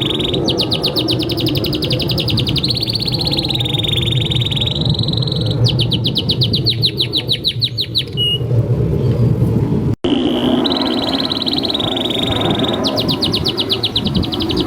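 Male domestic canary singing a vigorous, continuous song: held whistled tones alternate with fast trills of rapidly repeated notes, about a dozen a second. The song stops about eight seconds in and starts again just after an abrupt splice near ten seconds, over a steady low background rumble.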